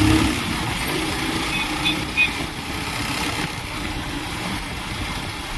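Steady engine and road noise of a moving two-wheeler heard from the rider's seat, easing slightly in level, with a brief sharp sound about two seconds in.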